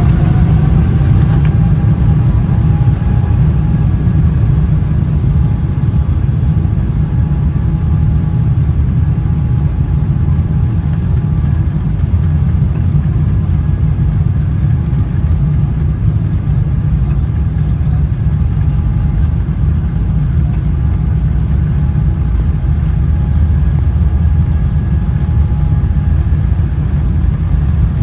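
Boeing 777-300ER's GE90-115B turbofans at takeoff thrust during the takeoff roll, heard from inside the cabin. A whine rises in pitch over the first few seconds and then holds steady above a loud, even rumble.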